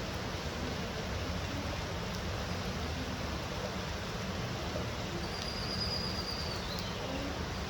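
Steady heavy rain, an even hiss with a low rumble. About five seconds in a faint high whistle holds for a second or so, then slides lower.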